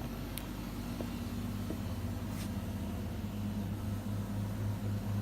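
Laser cutter running after being started on an engraving job: a steady low machine hum that pulses slightly in the second half, with a couple of faint clicks.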